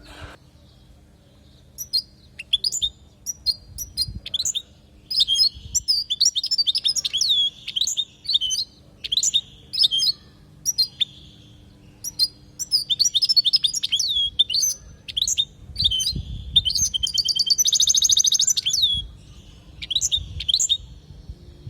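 European goldfinch singing: rapid twittering phrases of high chirps and slurred notes, beginning about two seconds in, with a fast rattling trill near the end.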